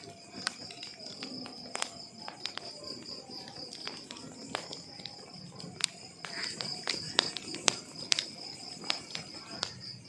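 Wood fire crackling in a fireplace: irregular sharp pops and snaps over a low rustle of burning logs, the strongest pops a little past the middle. A steady high-pitched trill runs underneath.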